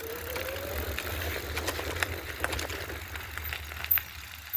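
Fifth Wheel Discover electric bike moving slowly: a brief rising motor whine in the first second over a low rumble, with scattered clicks and rattles. A sharp knock comes about four seconds in, after which it goes quieter.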